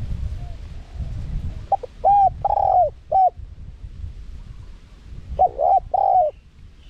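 Spotted dove cooing: a phrase of several short and drawn-out coos about two seconds in, then another phrase near the end, over a low rumbling background.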